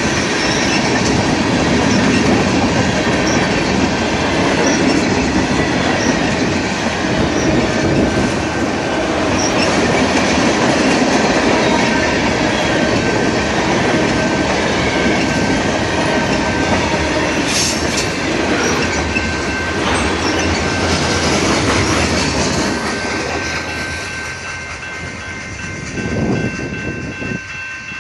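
Freight cars rolling past at close range: a steady rumble with wheels clattering over the rail joints and some wheel squeal. The sound fades in the last few seconds as the train goes by.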